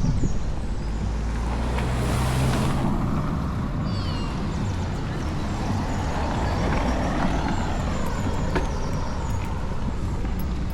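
Bicycle in motion: steady wind rumble on the microphone with the tyres running over the track. A brief hiss comes about two seconds in, and a few short high squeaks around four seconds.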